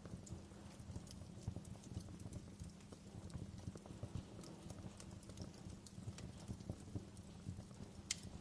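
Wood fire crackling in a fireplace: a dense low crackle with scattered sharp snaps, and one louder snap near the end.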